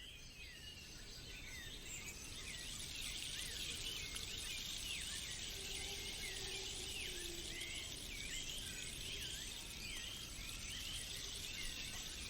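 Forest ambience: many small birds chirping in quick, short calls over a steady high insect hiss, fading in over the first two seconds.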